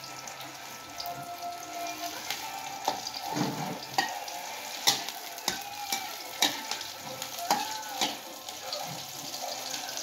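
Garlic and onion sizzling in oil in a wok while being sautéed until browned. A metal spoon stirs and scrapes them, giving a scattering of sharp clinks against the pan over the steady sizzle.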